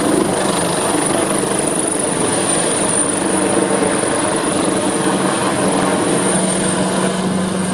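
Helicopter running steadily close by: a dense rotor and engine noise with a constant high turbine whine and a steady low hum underneath.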